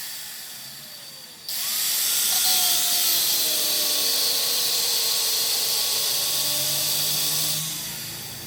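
High-speed power tool running with a shrill whine: it starts abruptly about a second and a half in and fades away near the end.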